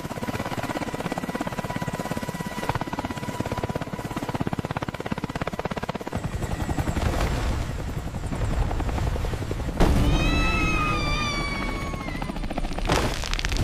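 A motor running with a fast, even chop throughout. About ten seconds in, a long meow-like cry that falls slightly in pitch sounds over it for about two seconds.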